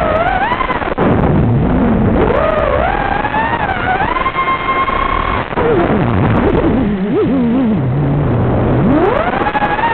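FPV racing quadcopter's brushless motors whining, the pitch rising and falling with the throttle: a dip and climb early, held high for a couple of seconds, dropping low, then climbing sharply near the end, over a hiss of noise.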